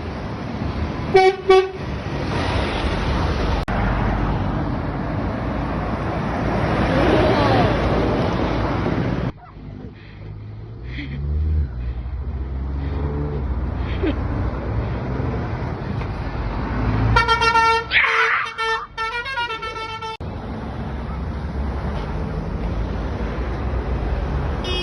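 Horns of passing lorries tooting over steady road traffic noise: two short toots about a second in, then a run of several honks about three quarters of the way through.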